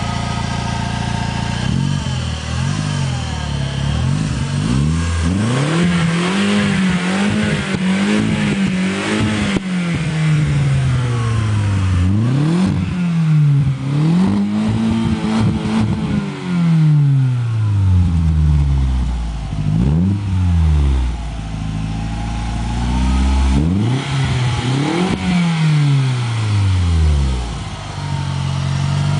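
Audi TT exhaust, its 180 hp 1.8-litre turbocharged four-cylinder revved again and again from idle, engine speed rising and falling back each time, with one rev held high for a few seconds.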